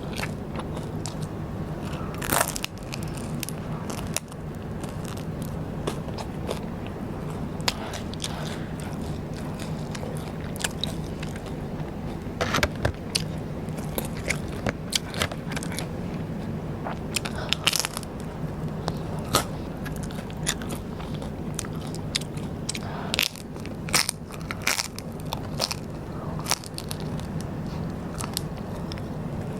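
Close-miked biting and chewing of crunchy rice paper snacks: irregular crisp crunches and crackles over a steady low hum.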